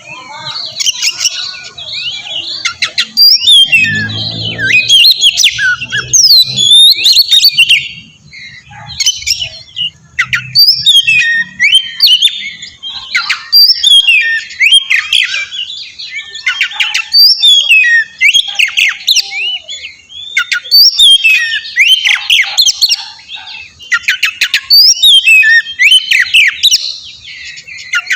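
Oriental magpie-robin (kacer) singing loudly in fast, varied phrases of whistles and harsh chattering notes, coming in bursts every second or two.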